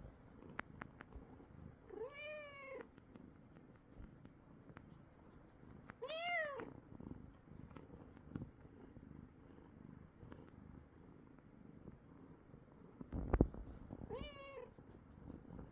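Domestic cat purring, with three short meows, each rising then falling in pitch: about two seconds in, about six seconds in, and near the end. A loud low thump comes shortly before the last meow.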